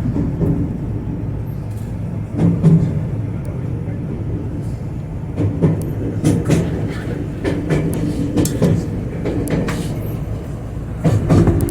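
Electric train running, heard from on board: a steady low rumble with scattered knocks and clicks.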